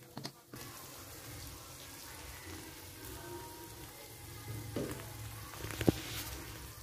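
Chili sambal with salted squid and jengkol sizzling quietly in a wok, with a couple of short clicks about five and six seconds in.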